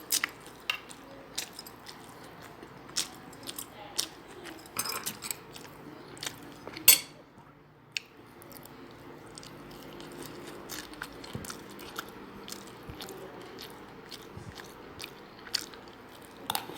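Close-up eating sounds: a person chewing and biting on a meal of rice and tilapia, with scattered sharp clicks and crunches, the loudest about seven seconds in, and quieter chewing in the second half.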